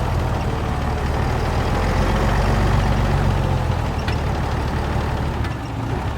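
A 1975 truck's engine running with a steady low note that eases off about three and a half seconds in, then drops a little further near the end.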